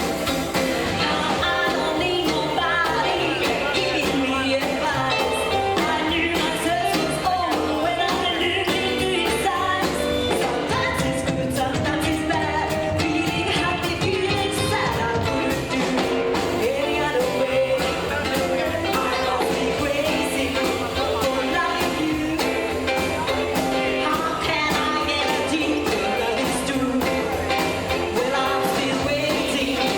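Live rockabilly band playing a song with a steady beat.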